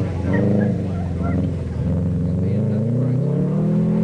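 Rally car engine revving hard as the car powers out of a dirt corner and away. Its pitch wavers at first, then climbs steadily over the last two seconds.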